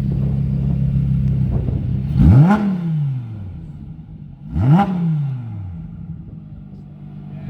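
Lamborghini Huracán Performante's V10 idling, then blipped twice: each rev rises sharply and falls back to idle over about a second.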